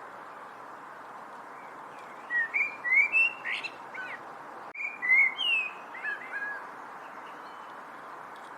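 A songbird singing two short phrases of slurred, whistled notes, the first starting about two seconds in and the second about five seconds in, over a steady background hiss.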